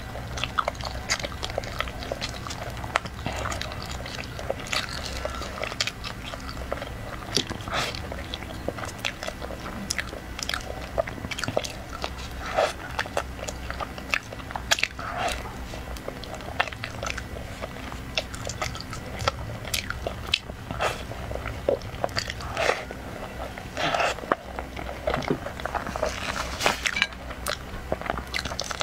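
A person biting and chewing a soft, cream-filled dark cake, with frequent sharp mouth clicks and smacks.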